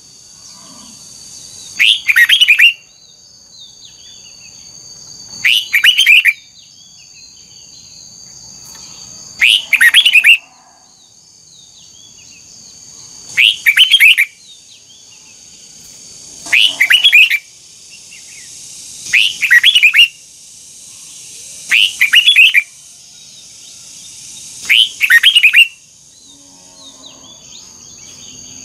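Red-whiskered bulbul singing loud, short, rapid warbled phrases, about eight of them spaced three to four seconds apart. A steady high-pitched buzz runs beneath.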